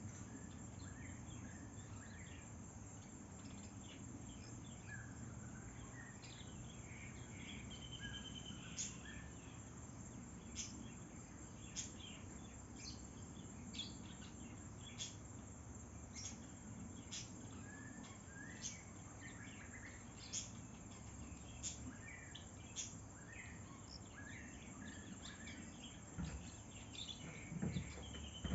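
Faint countryside ambience: a steady, high-pitched insect drone with scattered bird chirps. Short, sharp calls repeat about once a second through the middle, and there is a low rumble underneath.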